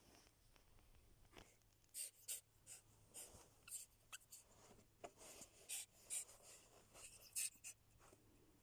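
Near silence broken by a dozen or so faint, short scratches and taps, scattered irregularly.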